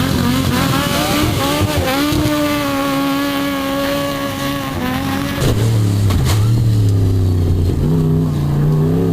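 Rally car engine running hard at high, steady revs, then about five seconds in the pitch drops suddenly and climbs again in steps as the car pulls away.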